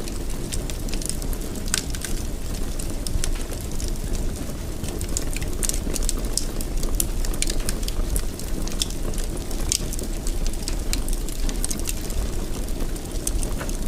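Wood fire burning in a fireplace: a steady low rumble of flame with frequent small, irregular crackles and pops.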